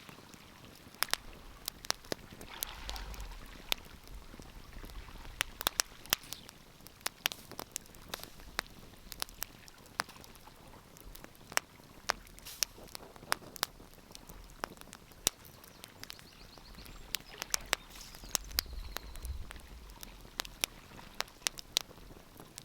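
Wood fire crackling, with sharp, irregular pops and snaps, several a second at times. A soft rushing noise swells up twice, about three seconds in and again near the end.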